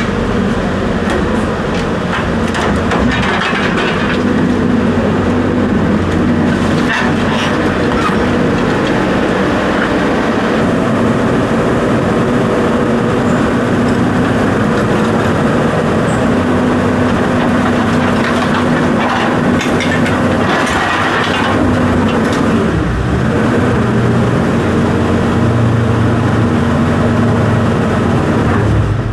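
A large engine running steadily, with rattling and clatter over it.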